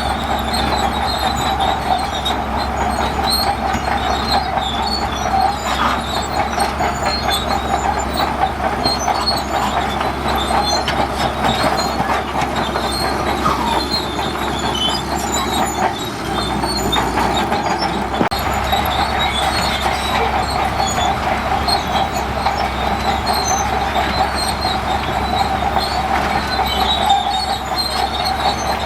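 Crawler bulldozer working, its diesel engine running steadily under the continuous metallic squeal and clatter of its steel tracks.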